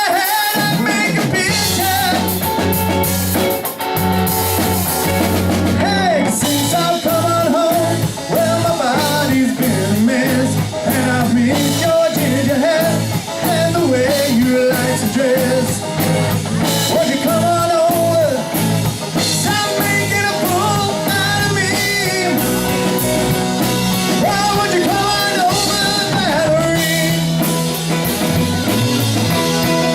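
Rock song with a sung melody over electric guitar, bass and drums.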